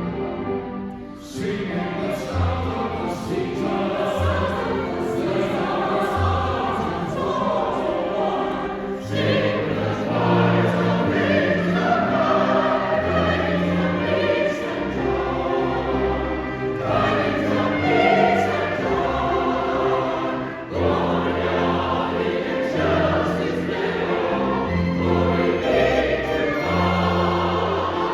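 A choir singing in harmony with a string ensemble accompanying, in sustained phrases; fresh phrases begin about a second in, about nine seconds in and about twenty seconds in.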